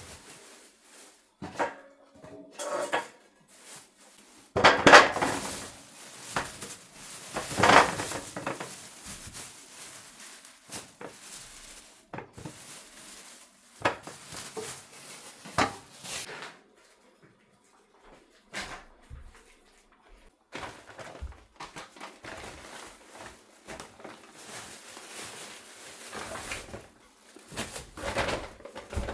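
Kitchen handling sounds: dishes and utensils knocking and clinking, with two louder noisy stretches of about a second each, around five and eight seconds in.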